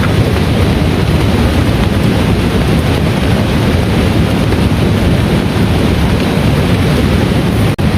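Heavy rain falling steadily and loudly, dense and even, with a brief dropout just before the end.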